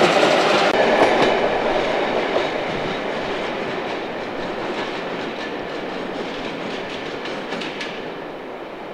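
Train of passenger coaches rolling past on the track, wheels clicking over the rail joints, the sound fading steadily as the train moves away.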